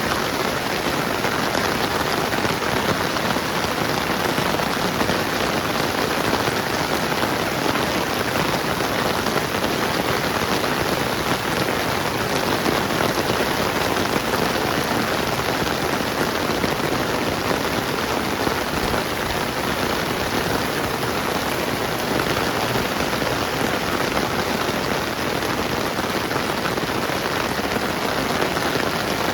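Steady rain falling on surfaces all around, an even, unbroken patter of drops.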